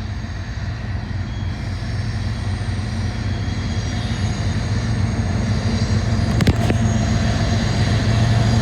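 BNSF SD70ACE diesel-electric locomotive, with its two-stroke V16 diesel, approaching at the head of a loaded coal train: a steady low engine hum that grows slowly louder as it nears. A couple of brief clicks come about six and a half seconds in.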